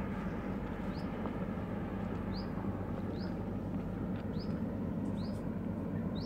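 A bird calling with short, high, upward-flicking chirps, about one a second, six in all, over a steady low rumble.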